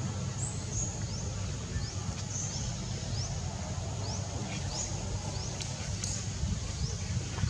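A series of short, high, rising chirps, repeating irregularly about twice a second, over a steady low rumble.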